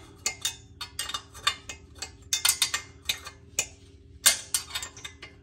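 A plain hand wrench clinking on an exhaust bolt as it is worked a little at a time, lifted off and refitted between short turns: irregular small metal clicks and clinks, some in quick clusters.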